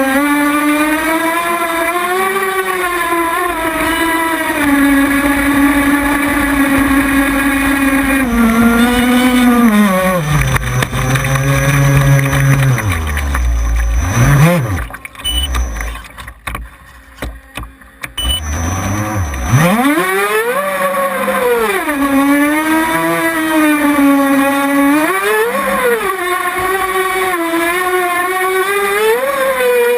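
A small boat engine running close by with a high-pitched whine that rises and falls with the throttle. About ten seconds in it slows and drops in pitch, then nearly falls silent for about four seconds. It then revs sharply back up and keeps surging up and down.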